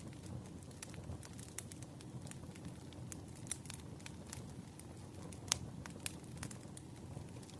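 Burning firewood crackling: frequent small sharp pops over a steady low rush of flame, with one louder pop a little past halfway.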